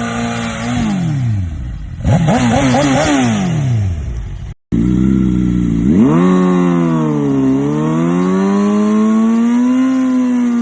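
Motorcycle engines revving hard in two clips cut together. First a held high-rev note drops away, then quick blips up and down. After an abrupt cut, a second engine climbs, sags and climbs again.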